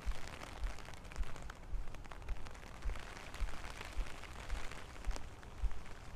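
Rain falling, with an even patter and scattered sharp drips, under a low thud about twice a second from the steps of someone walking in it.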